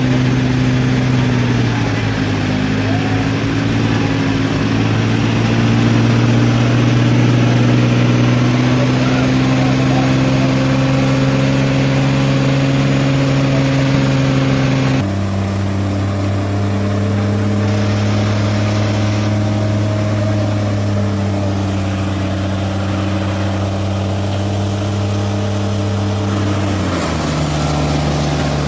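Diesel tractor engines running steadily at high revs under heavy load in a tractor tug-of-war. The engine note changes suddenly about halfway through and again near the end.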